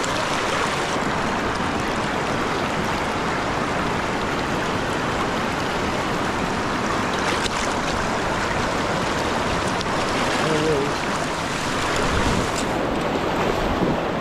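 River current rushing steadily, an even rush of flowing water.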